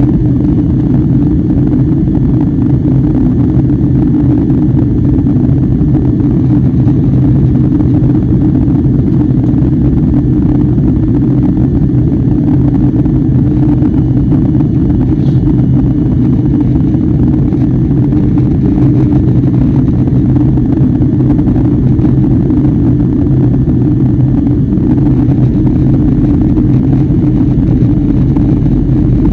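Airliner cabin noise from a window seat: the jet engines and airflow make a steady, loud low drone with a deep hum and no sudden changes.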